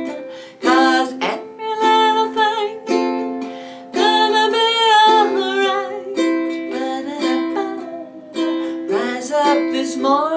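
Ukulele strummed through a simple three-chord song (C, F and G7), with a woman singing the melody over it.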